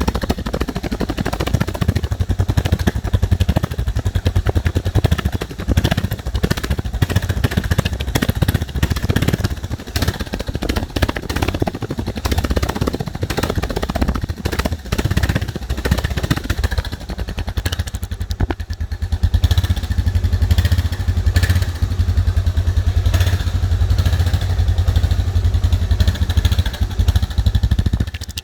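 Suzuki DR650's single-cylinder four-stroke engine running, with a rapid train of exhaust pulses; the engine speed shifts partway through and settles into a steadier, faster beat in the second half.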